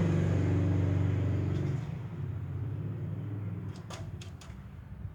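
A motor engine running steadily, dropping away about two seconds in, followed by three quick sharp clicks.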